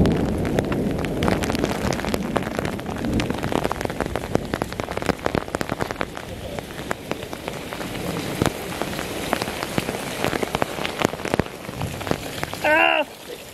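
Heavy rain falling, with many drops hitting close to the microphone as sharp ticks. A brief high squeak near the end.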